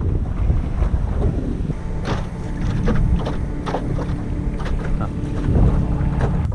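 Wind buffeting the microphone on a fishing boat, with a run of sharp clicks and knocks starting about two seconds in and a steady hum joining them shortly after.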